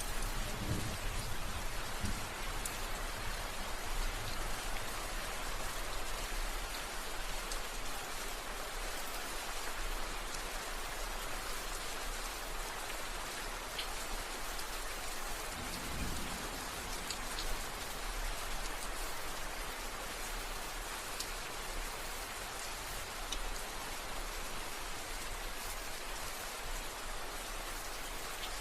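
Steady rain falling, an even hiss with scattered individual drop ticks, and low rumbles of distant thunder near the start and again about halfway through.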